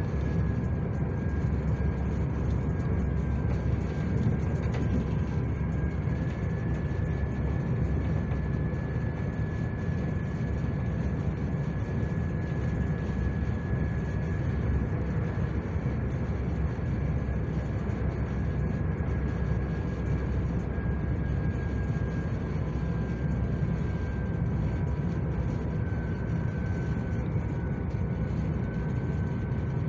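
Steady running noise inside a moving SJ passenger train carriage: an even low rumble, with a faint high whine held throughout that dips slightly near the end.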